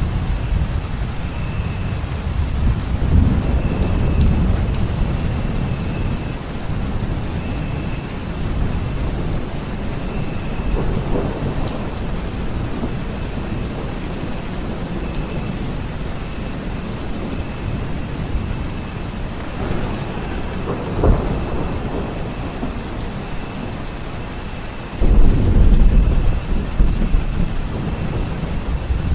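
Steady rain falling, with thunder rumbling low several times, a sharp crack about two-thirds of the way through, and a loud rolling thunderclap starting near the end. A faint, high note repeats every second or two under the rain.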